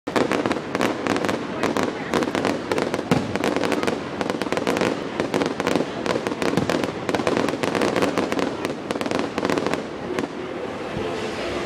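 Fireworks show: a dense run of rapid crackling pops from glittering crackle shells, thinning out about ten seconds in, with people's voices underneath.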